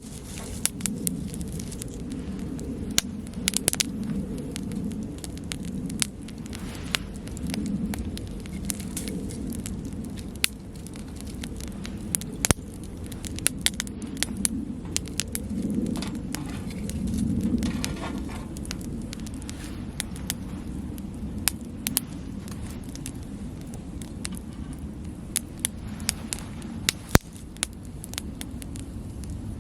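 Wood campfire crackling, with frequent sharp pops and snaps scattered irregularly over a low, wavering rumble that swells now and then.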